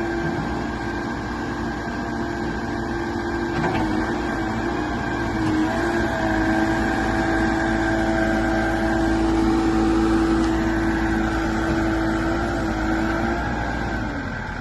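JCB 214 loader backhoe's diesel engine running under load as the machine is worked, with a steady whine over the engine rumble. The whine steps up a little about six seconds in and drops away shortly before the end.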